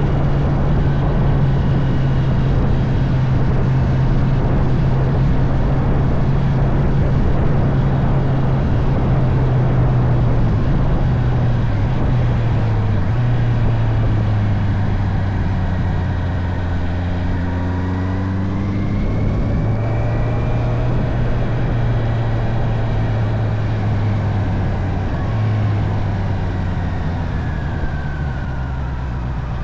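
Honda CB650R's inline-four engine running at a steady road pace over wind and road noise. Its note steps lower about halfway through and again near the end, with a brief dip and rise in pitch between.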